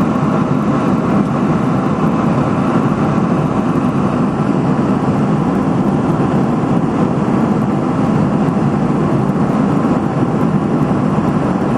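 Steady cabin noise of an airliner in cruise flight: a constant rush of engine and airflow noise heard inside the cabin.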